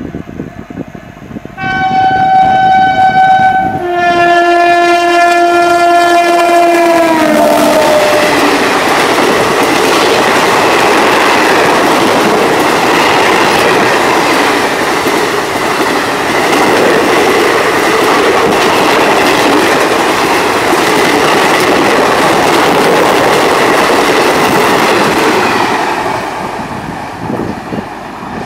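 WAP-4 electric locomotive of an Indian Railways express sounding its horn as it approaches at about 130 km/h: a higher note, then a lower one whose pitch drops as the engine passes. Then the steady rush of the coaches' wheels on the rails for some eighteen seconds, fading away near the end.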